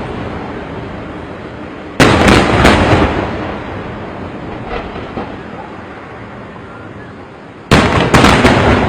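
Large fireworks exploding in two clusters of heavy blasts, about two seconds in and again near the end. Each cluster is three quick booms followed by a long rolling rumble that dies away.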